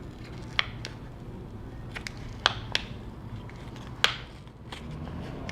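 A few sharp plastic clicks and taps of hand tools working on a MacBook Pro's glued battery, two of them close together in the middle, over a steady low hum.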